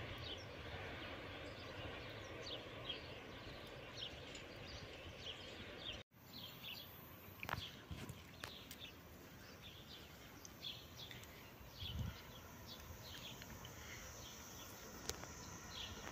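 Birds chirping over a faint, steady outdoor background hiss, with an occasional low thump. The sound cuts out for an instant about six seconds in.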